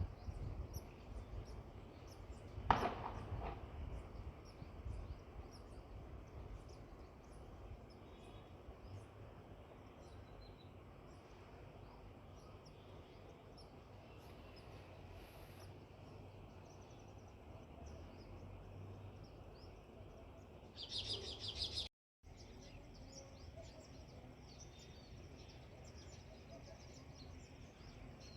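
House sparrows chirping faintly with many short high chirps, over a low background rumble, with a louder burst of chirping about 21 seconds in. A single dull knock sounds about 3 seconds in, and the sound drops out completely for a moment just after the chirp burst.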